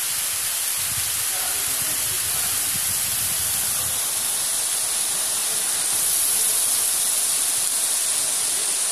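Heavy rain pouring steadily, an even hiss that grows a little louder about six seconds in, with a low rumble underneath during the first few seconds.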